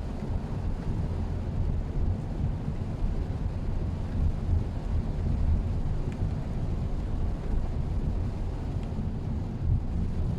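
Steady low rumble of a Mitsubishi Xpander driving along, a mix of tyre, engine and wind noise at an even level.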